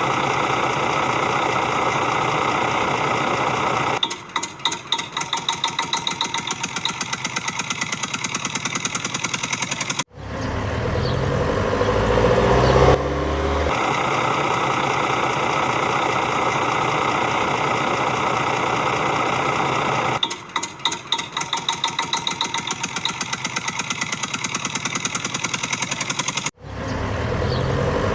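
Engine sound on a loop: a steady run, then a fast rhythmic chugging, a sudden cut-out and a rising rev. The same sequence plays twice.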